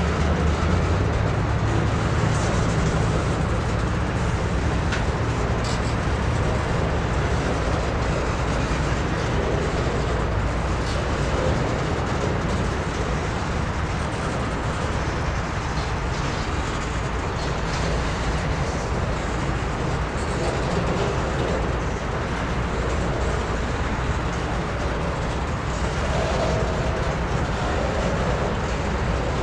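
Freight train's boxcars rolling past: a steady rumble of steel wheels on the rails, with a few light clicks scattered through it.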